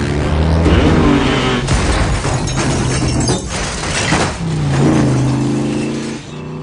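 Car engines running hard and revving in a car chase, the engine pitch rising and falling over road and wind noise.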